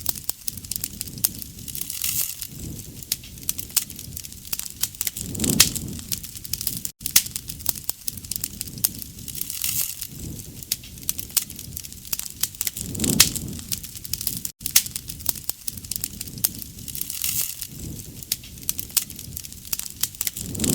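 Wood fire crackling with many sharp pops and snaps over a low rumble that swells every few seconds. The same short stretch repeats with a brief drop-out about every seven and a half seconds.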